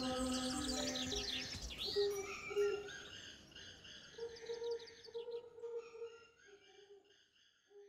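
Birds chirping and calling, with many quick twittering notes that thin out and fade over the last few seconds. A held musical tone dies away about a second in.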